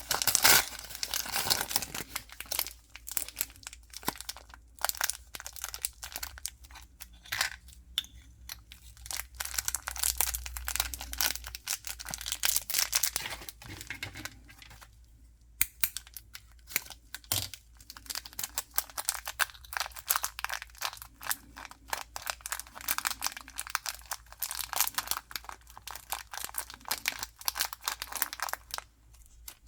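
Toy packaging crinkling and tearing as it is unwrapped by hand: a dense run of crackles and rips, with a brief lull about halfway through.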